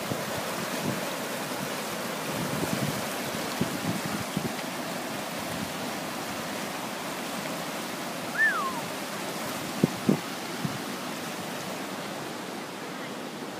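A flood-swollen brook running high after hurricane rain: a steady rush of water. A brief falling chirp comes about eight and a half seconds in, and a couple of sharp knocks follow about ten seconds in.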